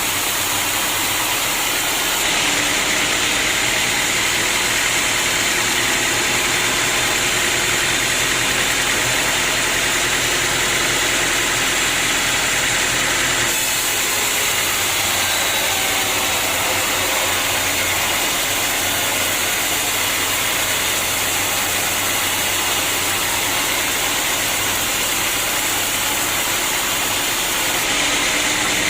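Sawmill machinery running steadily, a dense mechanical noise with an engine hum underneath. Its character changes abruptly about two seconds in and again about halfway through.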